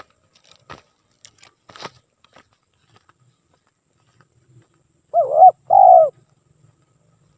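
Spotted dove (tekukur) cooing: about five seconds in, one call phrase of two loud notes, a short wavering coo followed by a longer rolling one. A few faint clicks come before it.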